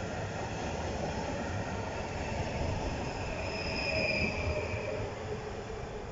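PKP Intercity electric multiple unit running along the platform and away, a steady rumble of wheels on rail with a high squeal that peaks about four seconds in; the sound fades near the end as the train draws off.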